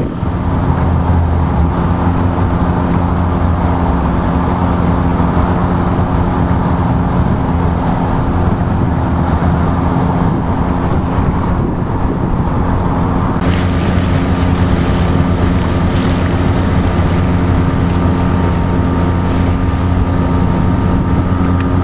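A sailboat's motor running steadily under way, with wind on the microphone and rushing water. About 13 seconds in, a higher hiss joins.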